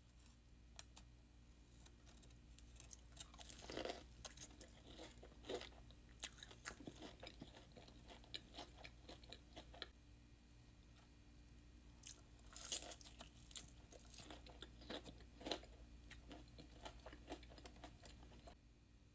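Quiet close-up chewing and crunching of crispy breaded fried chicken tenders, with irregular crisp bites. The loudest crunches come about four seconds in, at about twelve to thirteen seconds, and at about fifteen seconds.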